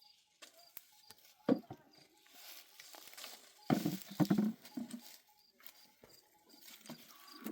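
Irregular knocks and thuds: one about a second and a half in, a cluster about four seconds in, and another near the end, with quieter rustling between.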